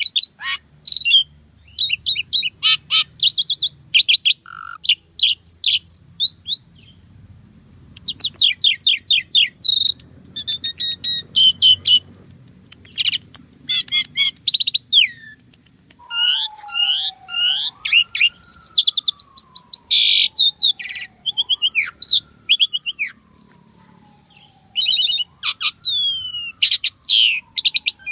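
Asian pied starling (jalak suren) singing continuously: rapid strings of high chirps, trills and whistles with short pauses. In the second half a lower whistle rises sharply and then slides slowly down, repeating about every four seconds underneath the chatter.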